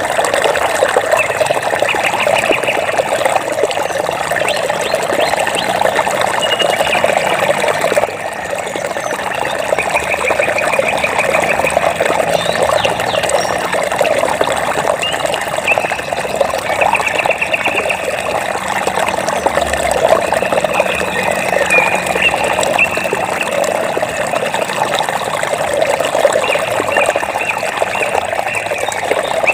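Flowing water trickling and babbling steadily. Several short, rapid trilling calls sound above the water now and then.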